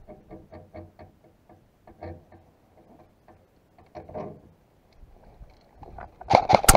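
A quick run of light ticks, about four a second, then scattered soft knocks. Near the end comes a loud, rapid burst of airsoft gun shots.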